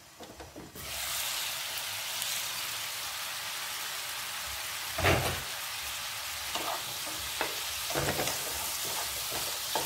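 Sliced mushrooms sizzling in a nonstick frying pan, in the water they have released. The sizzle jumps up about a second in as the glass lid is lifted, and a spatula stirring them knocks and scrapes against the pan, loudest about halfway through.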